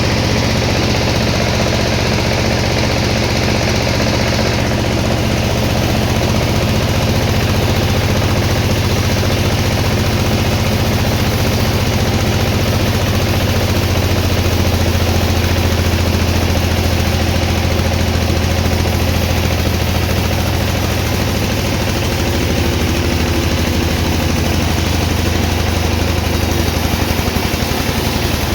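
An engine running steadily with a deep, even hum. A brighter hissing noise rides over it for about the first five seconds, then stops.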